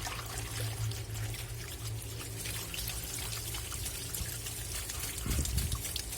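Water swirling, sloshing and splashing in a washing machine tub as soaking clothes are agitated, with a low surge a little after five seconds.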